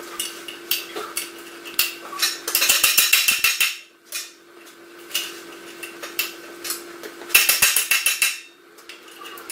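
Steel being struck and clattered: a few separate metal knocks, then two spells of rapid clattering strikes, each lasting about a second, the first about two and a half seconds in and the second near the end.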